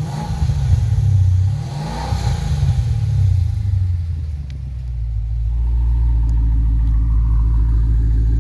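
Dodge Challenger SRT8's V8 revved twice through a valved exhaust in its quiet mode, then settling back to a steady, deep idle.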